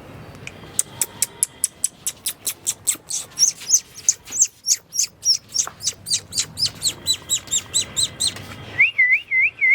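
A bird chirping in a fast, even series of short, high chirps, about five a second, followed near the end by a wavering whistle.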